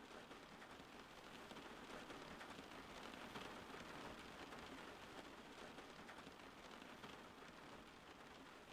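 Faint steady rain, an even hiss of many small drops falling.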